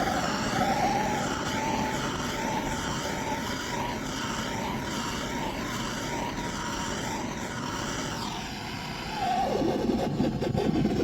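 A vehicle running, with a steady whine and a higher sound that wavers up and down about once a second; it turns louder and rougher about nine seconds in.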